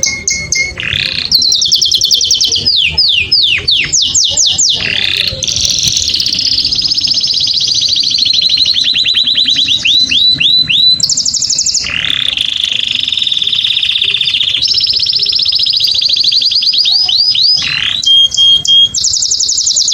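Male domestic canary singing a long, high-pitched song of rapid trills and rolls, broken several times by runs of quick downward-sweeping notes.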